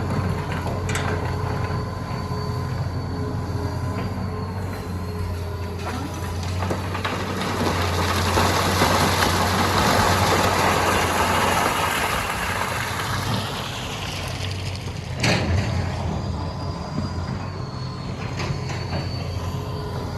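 Hitachi EX200 excavator's diesel engine running steadily with a thin high whine. A broad rushing noise swells and fades in the middle, and there is one sharp knock about fifteen seconds in.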